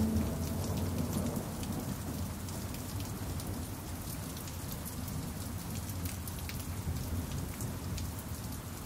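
Steady rain falling, with many individual drops pattering on a surface and a low rumble underneath. A pan drum's last note fades away in the first second, leaving only the rain.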